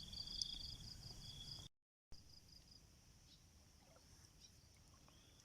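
Insects trilling steadily in two high pulsed trills over a low outdoor background. It cuts to silence for a moment just under two seconds in, and after that only a fainter trill and the background remain.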